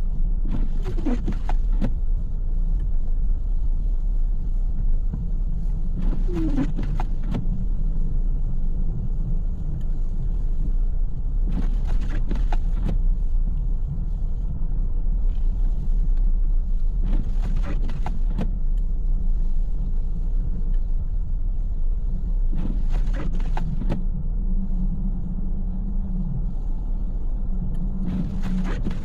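Car moving in snow, heard from inside the cabin: a steady deep rumble of engine and tyres. About every five and a half seconds comes a short burst of about a second, six in all, in the regular rhythm of windshield wipers on an intermittent setting.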